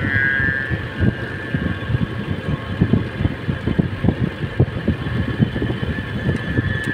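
Motorcycle running along a road, with irregular low buffeting from wind on the microphone and a steady high-pitched whine.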